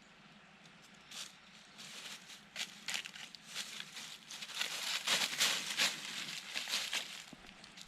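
Crunching, rustling footsteps of a walk with a shiba inu, as irregular crackles underfoot that grow louder about five seconds in.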